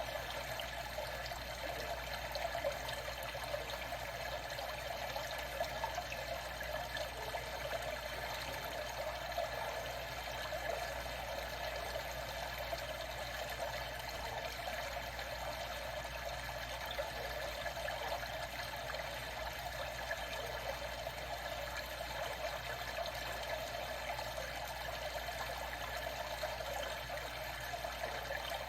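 Water trickling steadily, an even running-water sound with no break.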